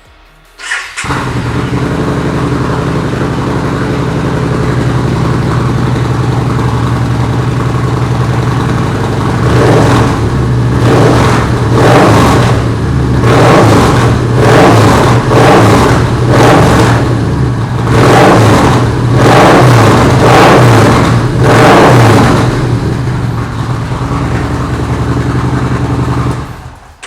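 Yamaha XV950 Racer's air-cooled V-twin started up about a second in, settling into a steady idle, then revved in a long series of quick throttle blips before dropping back to idle and being switched off just before the end.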